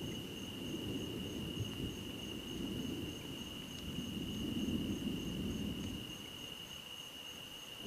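Night insects trilling steadily: one continuous high trill and a second, higher chirp pulsing rapidly. Under them a low rumble of distant thunder rolls, swelling about halfway through.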